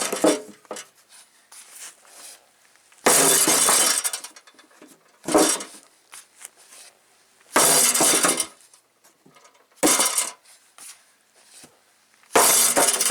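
Heavy sledgehammer blows on a stainless steel truck fender, about six metallic crashes a couple of seconds apart, several of them ringing for up to a second, as a creased fender is beaten back into shape.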